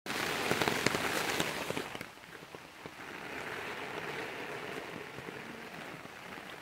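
Heavy monsoon rain falling on a wet concrete road and the surrounding trees, a steady hiss with scattered drop taps. It is louder at first, dips briefly about two seconds in, then carries on a little softer.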